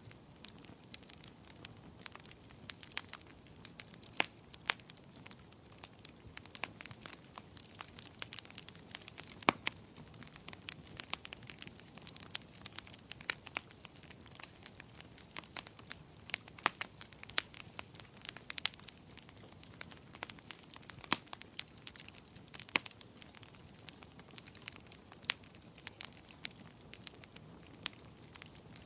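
Wood fire crackling in a fireplace: irregular sharp pops and snaps, some louder than others, over a faint steady hiss of the burning.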